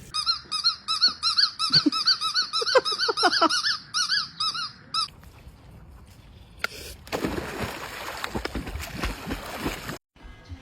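A rapid string of high-pitched squeaks, about four or five a second, lasting about five seconds. Rustling noise follows near the end.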